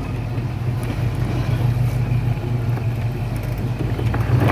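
Off-road vehicle engine running steadily at low revs during a rock crawl.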